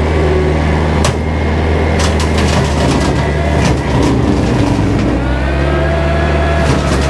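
Kubota tractor's diesel engine running steadily with the bush hog engaged, with scattered sharp snaps. The engine note dips and shifts about three to four seconds in, then steadies again.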